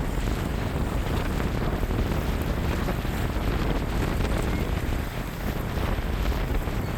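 Strong wind buffeting the microphone: a steady, low rumbling noise.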